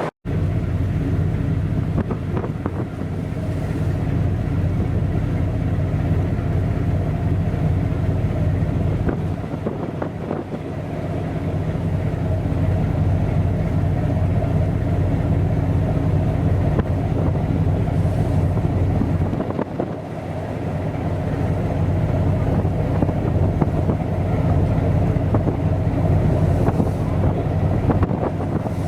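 Ship's engines running in a steady low drone, a deep hum made of several evenly spaced tones, with a light wash of wind on the microphone.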